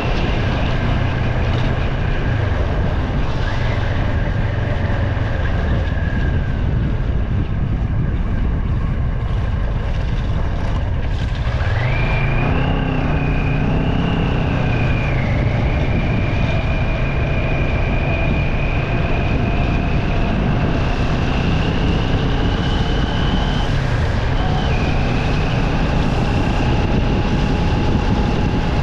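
A vehicle driving on a wet road, with steady engine and tyre noise. About twelve seconds in, a whine rises in pitch and then holds level as the vehicle picks up speed.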